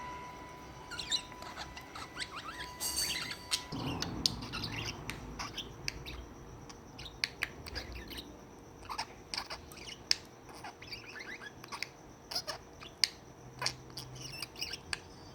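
Pet budgerigar chirping: short, scattered chirps and quick chatter.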